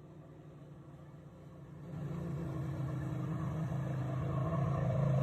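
An engine running with a steady hum, growing louder from about two seconds in.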